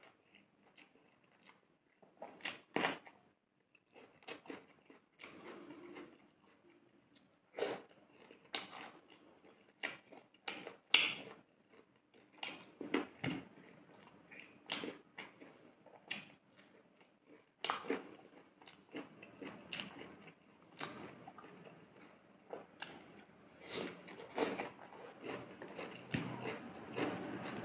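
A person chewing food close to the microphone, with sharp mouth smacks and clicks at an irregular pace of about one or two a second.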